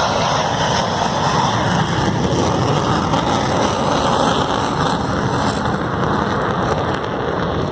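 Panavia Tornado's two RB199 turbofan jet engines running loud and steady as the jet flies a missed approach (go-around) past the crowd.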